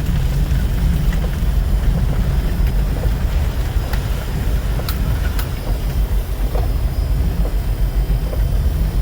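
Strong storm wind buffeting the microphone: a loud, steady low rumble that rises and falls, with a few sharp ticks about four to five seconds in.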